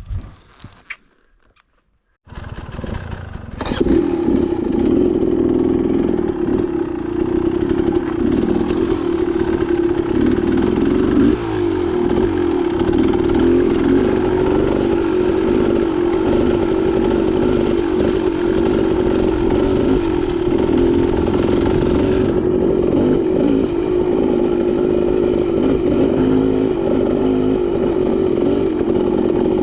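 Near silence for about two seconds, then a dirt bike's engine comes in and runs steadily while the bike is ridden.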